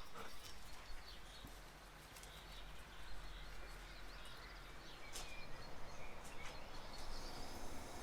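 Faint background ambience with a few soft, short bird chirps and occasional light clicks.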